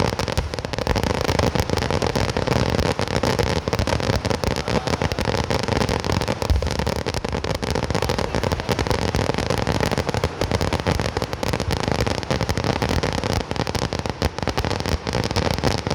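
Fireworks going off in a dense, unbroken barrage of rapid, overlapping bangs and crackles, with one heavier bang about six and a half seconds in.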